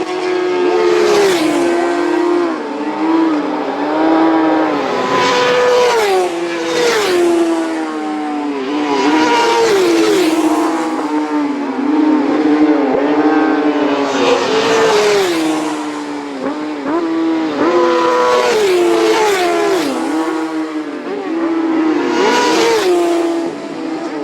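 Road-racing motorcycles passing one after another at speed, about six or seven passes in all. Their engines rise and fall in pitch through gear changes and as each bike goes by.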